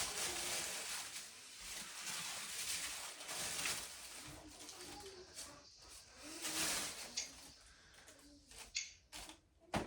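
Packing material being handled and pulled apart, rustling and scraping in several bursts, with a few sharp knocks near the end.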